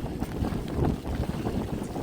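Strong wind buffeting the microphone: a rough, gusting rumble.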